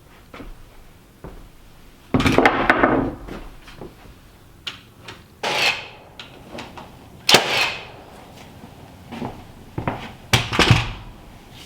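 Wall-framing carpentry with 2x4 lumber: four loud knocks and bangs of wood and tools a few seconds apart, with light clicks and taps between them.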